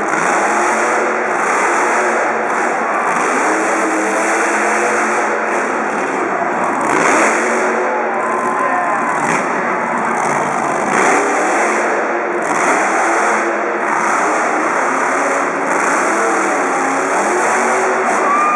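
Monster truck engine running hard and revving, its pitch rising and falling over and over, amid the noise of an arena.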